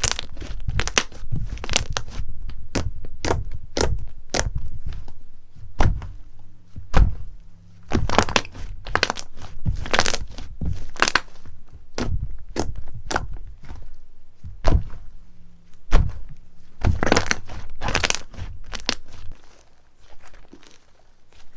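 Slime being squeezed and pressed by hand, giving a dense run of irregular sharp pops, crackles and crunches several times a second; it goes quieter near the end.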